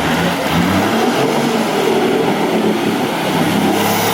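Off-road 4x4's engine revving hard, its pitch rising and falling in steps.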